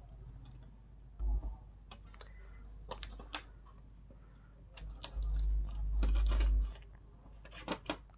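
Hands working on the open back of an LED TV: scattered clicks, scrapes and crinkling of parts being handled, with a low thump about a second in and a longer low rumble about five seconds in.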